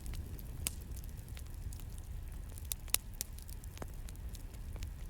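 Crackling campfire: a steady low rumble of burning with sharp pops at irregular moments, the loudest about three seconds in.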